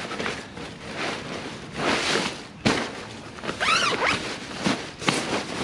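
Zip on camping gear being pulled, a few rasping swishes with a sharp click about two and a half seconds in.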